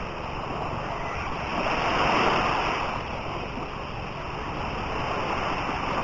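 Sea waves breaking and washing up the beach. One surge swells about two seconds in, then fades back.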